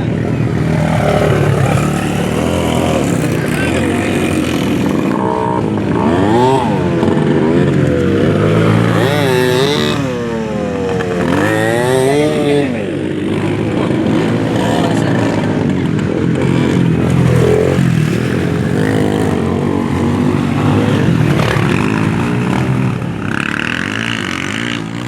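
Racing motorcycle engines revving, more than one at a time, their pitch repeatedly climbing and falling, most strongly in the middle stretch.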